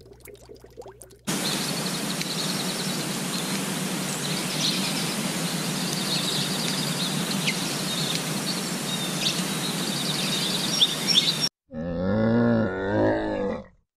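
Steady outdoor background hiss with small birds chirping now and then. About twelve seconds in, a Bactrian camel calls, a deep-pitched call that rises and falls for about two seconds.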